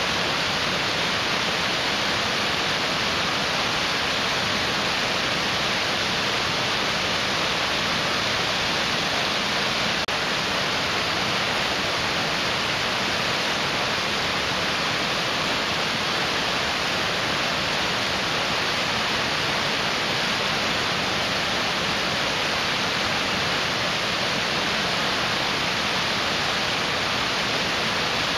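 Mountain stream rushing over rocks: a steady, dense roar of water.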